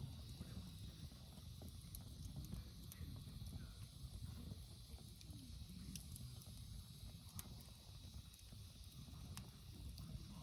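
Wood campfire burning, with scattered crackles and several sharp pops over a low steady rumble.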